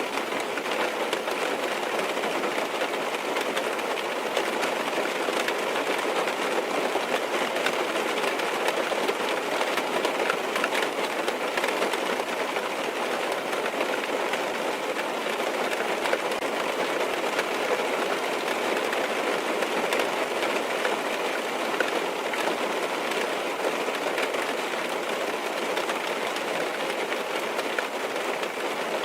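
Steady rain tapping on a car's windows and roof, heard from inside the car as an even rush of noise with many small drop ticks.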